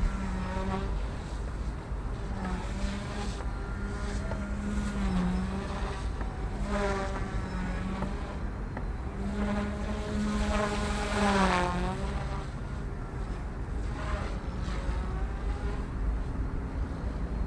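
OMP Hobby M1 Mini electric direct-drive RC helicopter in flight, its motor and rotor giving a steady pitched whine that dips briefly in pitch twice, around five and eleven seconds in, as the blades load up. Wind buffets the microphone underneath.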